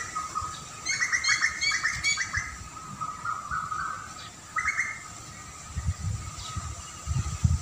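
Small bird chirping: a quick run of short repeated chirps about a second in, then another brief call about halfway through, over a faint steady high-pitched hum. Low rumbles come in near the end.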